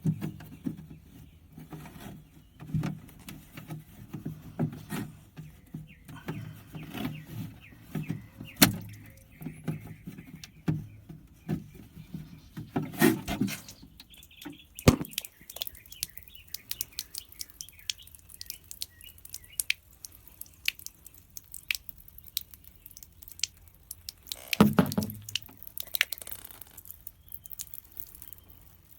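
A YougetTech EH18 evaporative humidifier being handled while it is drained: irregular plastic clicks, knocks and rubbing, with water dripping. There are louder bursts of handling about halfway through and again near the end.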